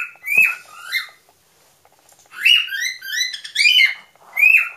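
Cockatiel whistling a song of short, bright notes that swoop up and then drop, repeated in quick phrases; he breaks off for about a second after the first few notes, then starts again.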